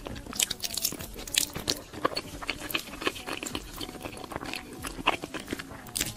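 Mouth sounds of someone biting and chewing soft, sticky, sauce-coated food: wet smacks and clicks in quick, irregular succession.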